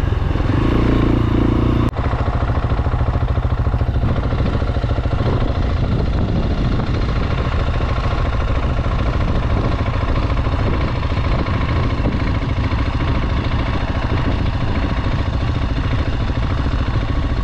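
A 690cc single-cylinder adventure motorcycle engine running steadily under way, with a brief break about two seconds in.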